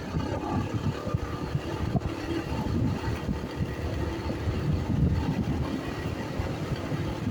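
Motorcycle engine running steadily while riding, with traffic and a low rumble of road noise.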